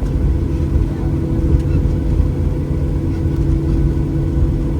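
Cabin noise of a Boeing 737-800 taxiing after landing, heard from a seat over the wing: the CFM56-7B engines at taxi idle and the airframe rolling give a steady low rumble with a faint hum above it.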